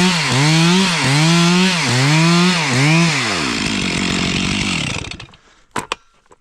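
Stihl two-stroke chainsaw running at high revs, its pitch dipping and recovering about twice a second. Around three seconds in the engine winds down and dies away, and a couple of sharp knocks follow.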